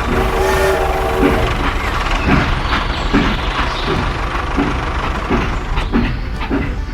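A vehicle engine running with a steady low rumble. A horn sounds with a held, pitched tone for the first second and a half, and from about two seconds in there is a regular knocking roughly every two thirds of a second.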